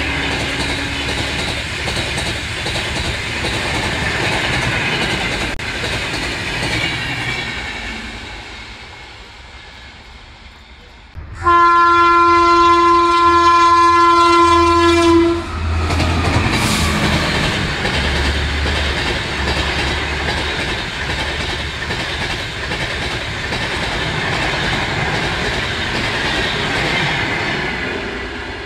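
Passenger trains hauled by Indian Railways WAP5 electric locomotives passing at speed: coaches rushing by and fading away, then a locomotive horn sounding one long steady blast of about four seconds, the loudest thing here, followed by a train rushing past again.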